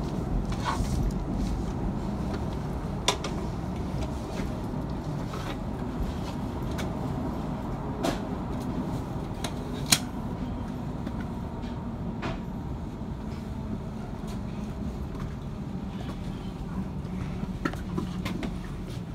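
Cabin rumble of a CR400AF-A Fuxing high-speed train slowing as it arrives at a station platform, a steady low running noise that gradually fades. Scattered sharp clicks and knocks from the carriage sound throughout, one loud one about ten seconds in.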